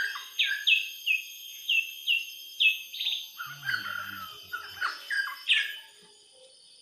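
A songbird calling: a run of short, sharp chirps, each sliding downward in pitch, about two a second, stopping shortly before the end.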